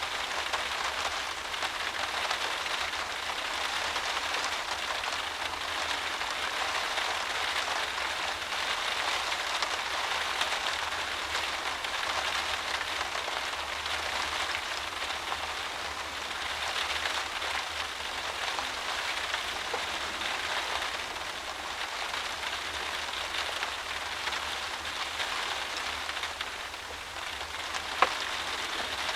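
Heavy driving rain beating steadily against a windowpane, heard from inside the room as a dense, even patter. A single sharp tap stands out near the end.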